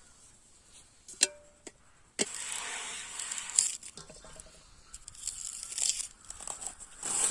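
Handling noises: two sharp clicks about a second in, then a burst of rustling, crinkling noise lasting a second and a half, followed by scattered clicks and rustles.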